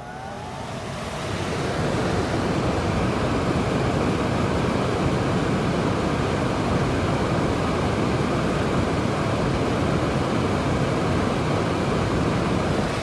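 Goodman gas furnace blower fan spinning up over a couple of seconds, then running steadily with a loud rush of air. The fan is running continuously without heat, which the technician puts down to a probable tripped high-limit or rollout switch.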